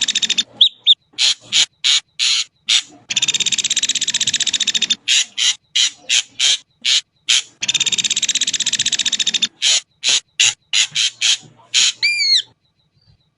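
Ashy drongo calling: long harsh buzzing rattles of about two seconds alternate with runs of short harsh notes, closing with a few quick whistled notes and stopping about twelve seconds in.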